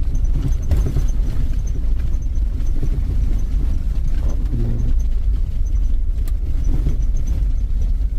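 Vehicle cabin noise while driving: a steady low rumble of engine and tyres on the road, with some uneven bumping.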